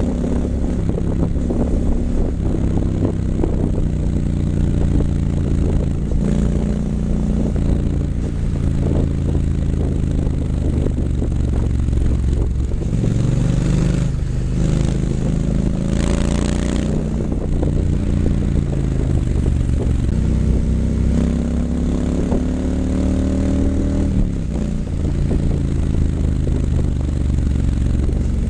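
Triumph Scrambler 900's parallel-twin engine running through an H-pipe and Vance & Hines exhaust while being ridden. The engine pitch climbs and drops several times as it is revved up and backed off.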